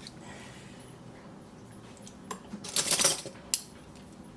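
Spoon scraping and knocking against a bowl as a tablespoon of miso paste goes in: a short clatter about three seconds in, then a single sharp click.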